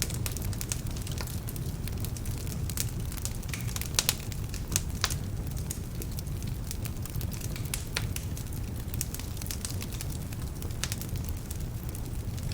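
Wood fire burning in a fireplace: a steady low rumble of flames with scattered sharp crackles and pops, two loud pops about four seconds in and another just after. The crackling comes from logs that are a bit damp.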